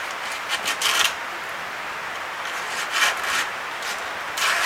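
Sandpaper rubbed by hand over a small hardwood fitting: three short bouts of scratchy rubbing strokes over a steady hiss.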